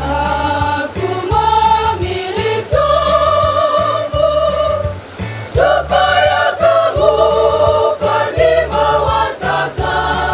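A mixed church choir singing a liturgical song in parts, with held notes that change every second or so. A choppy low rumble runs underneath.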